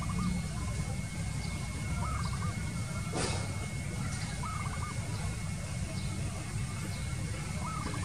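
A bird repeating a short call of three or four quick notes about every two to three seconds, three times, with faint high chirps from other birds. A steady low rumble runs underneath, and there is a brief click about three seconds in.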